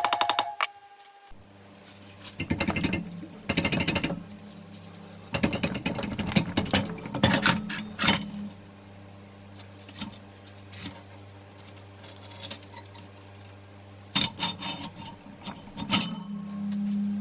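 Hand tools and metal engine parts clicking and clinking in irregular bursts on a workbench as an engine is taken apart.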